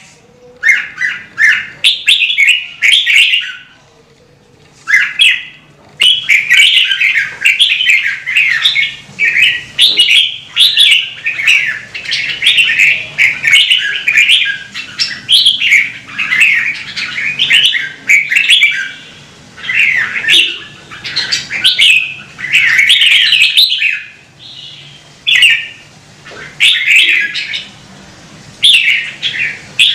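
Red-whiskered bulbul singing: short, fluty warbling phrases one after another, with a brief pause a few seconds in.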